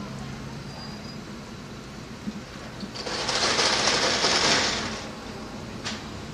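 Car driving, with steady engine and road noise in the cabin. About three seconds in, a loud hiss swells for roughly two seconds and fades.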